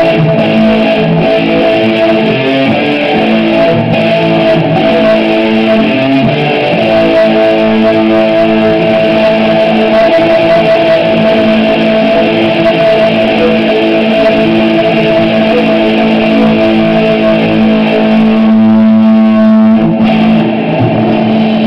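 Loud guitar music played through a freshly repaired amplifier on test, running continuously with held notes.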